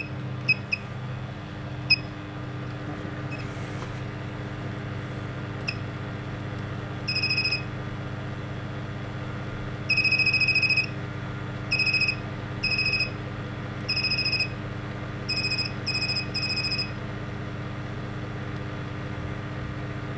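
Non-contact voltage tester pen giving a run of high-pitched beeps of uneven length, some short and some held about a second, as it picks up live voltage. A steady low electrical hum sits underneath.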